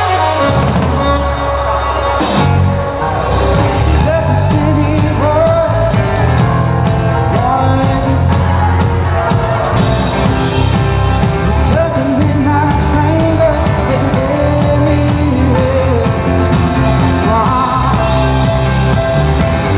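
Live band playing an upbeat rock song with a steady drum and bass beat and a melody line on top.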